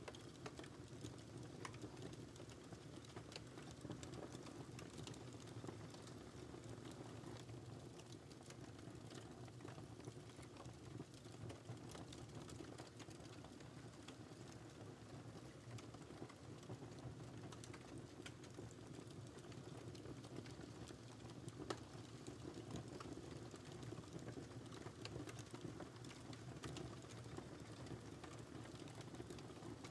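Wood fire burning in a fireplace, crackling softly: faint irregular pops and snaps over a low, steady hiss of the flames.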